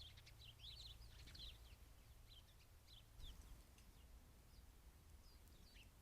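Small backyard birds chirping faintly: many short, high chirps, busiest in the first second or two and then more scattered. A faint low hum sits underneath and stops about three seconds in.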